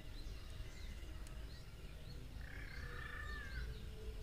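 Nature soundtrack of birds chirping, with one longer call of about a second just past the middle, over a steady low rumble.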